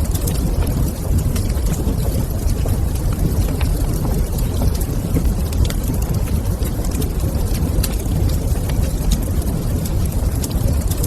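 Wood fire crackling in a fireplace: scattered sharp snaps and pops over a steady low rumble.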